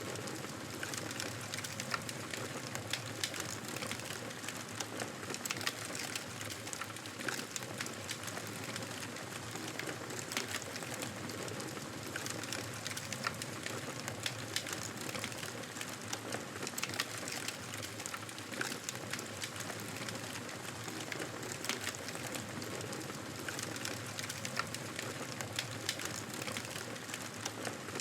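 Wood fire crackling in a fireplace: a steady low hiss with frequent small, sharp pops and snaps scattered throughout.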